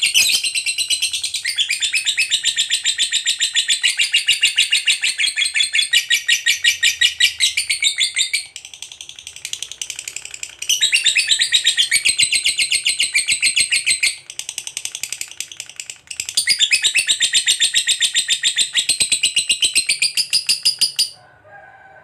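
Lovebird doing its long ngekek song: a fast, high chattering trill of rapidly repeated notes. It comes in three long bouts broken by two shorter, quieter stretches and stops about a second before the end.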